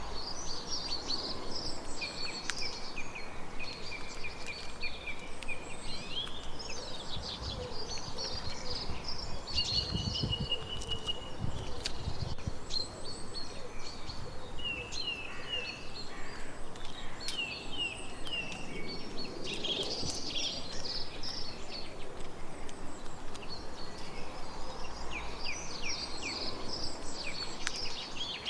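Several birds singing and calling: short chirps, trills and repeated whistled notes over a steady outdoor hiss, with a brief low rumble about ten seconds in.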